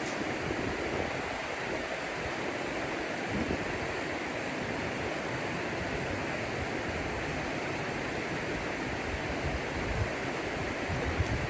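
Steady rush of falling water from a waterfall, with some low wind rumble on the microphone near the end.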